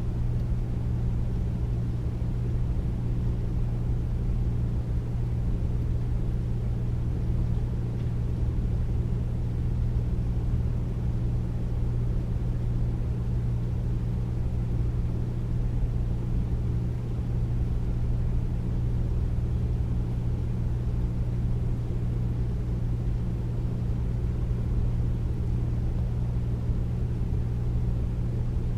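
Air conditioner running steadily: a deep, even hum with a low rumble that does not change.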